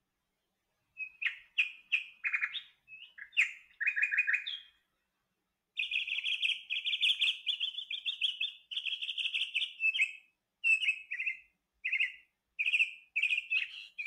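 A songbird singing: quick chirping phrases begin about a second in, break off briefly near five seconds, then return as a longer unbroken run of rapid chattering notes, and end as a few short phrases.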